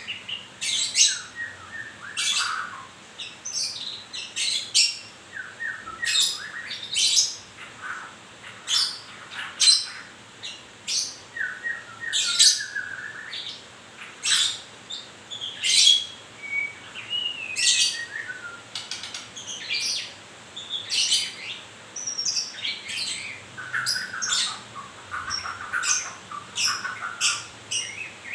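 White-rumped shama (murai batu) calling on and on in short, sharp high notes about once a second, broken now and then by lower chattering, falling phrases.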